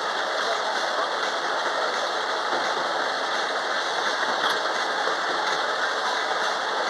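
Amusement-park ride train running, with a steady mechanical rattle and clatter.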